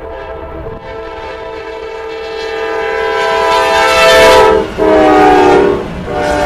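Diesel locomotive's multi-chime air horn blowing as the train approaches, growing louder to a peak about four seconds in. The horn breaks off briefly, then sounds again at a lower pitch as the locomotive passes; after another short gap it starts once more near the end.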